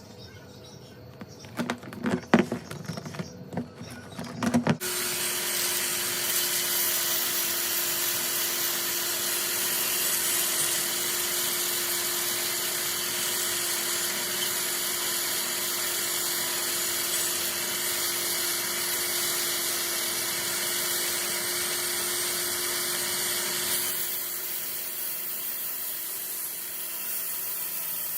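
Several clicks and knocks, then a power tool starting about five seconds in and running steadily with a constant hum and hiss, easing slightly in level near the end.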